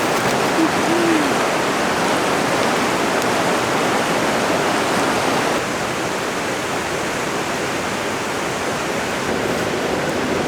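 Steady heavy rain falling, an even hiss that eases slightly about halfway through.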